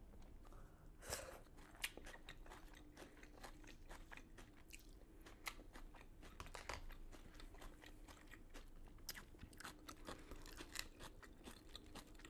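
Faint, close-up chewing and crunching of crispy KFC fried chicken: a run of irregular sharp crackles, with the loudest bites about a second in and just before two seconds in.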